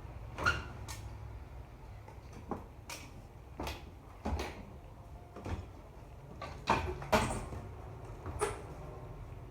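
An irregular series of about ten sharp knocks and clatters, like household things being handled and set down, the loudest two close together about seven seconds in.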